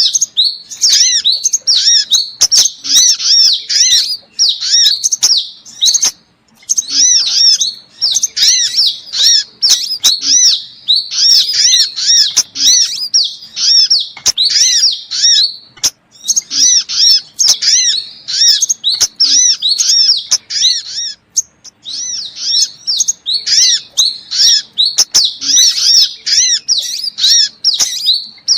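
Sunbird lure-call recording: rapid runs of thin, high chirping notes, broken by a few short pauses.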